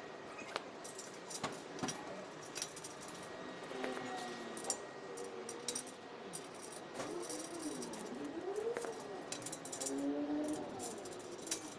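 Small metal hardware clinking and rattling in scattered sharp clicks while the bed rack is assembled. Faint rising-and-falling tones waver underneath through the second half.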